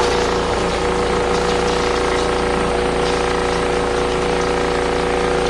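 Small RV washing machine running its final spin cycle: a steady motor hum with a whirring wash of noise, even throughout.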